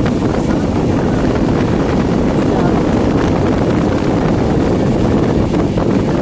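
Passenger train running, a steady loud rumble and rush of noise.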